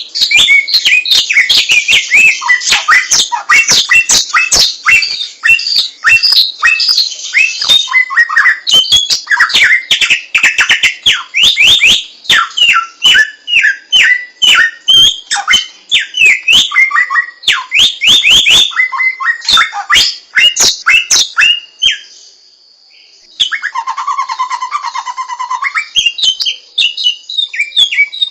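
A samyong songbird singing a loud, rapid, varied song of high chirps and quick trills. It breaks off about 22 s in, a lower buzzy trill follows for a couple of seconds, and then the fast chirping starts again.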